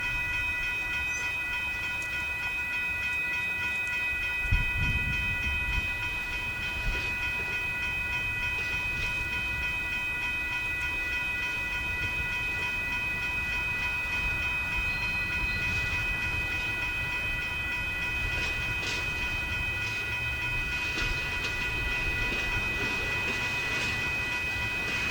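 Diesel freight locomotives working slowly during shunting: a low engine rumble under a steady high-pitched whine, with a thump about four and a half seconds in and scattered metallic clanks in the last several seconds.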